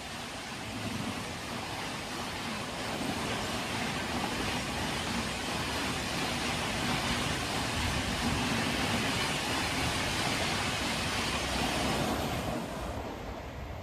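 Express train passing at high speed: a steady rush of wheel and rail noise that builds over the first few seconds, holds, then falls away sharply about twelve seconds in as the train clears.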